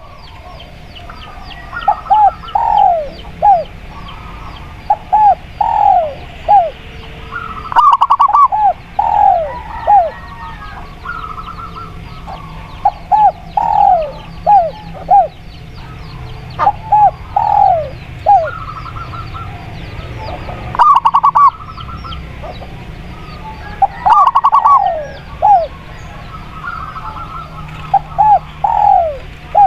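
Spotted dove and zebra dove cooing, in short phrases of three or four curved notes repeated every couple of seconds, with faint high chirping from small birds behind them.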